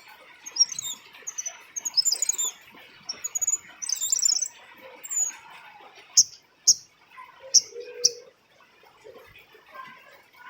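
Female cabai rimba (kemade) bird calling: rapid clusters of high, thin chirps and twitters, then four sharp, separate high notes a little past the middle.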